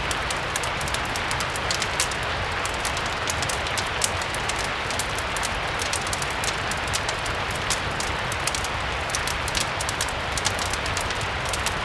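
Steady rain with a low rumble underneath, mixed with a crackling wood fireplace: frequent short, sharp crackles and ticks scattered throughout.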